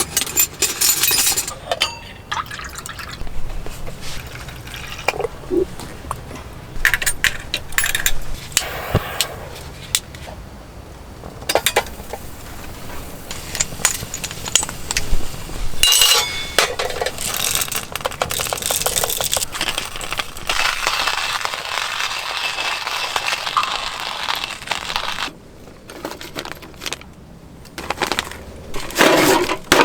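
Clinks of cookware or glass being handled, with liquid being poured in a long steady stream in the second half.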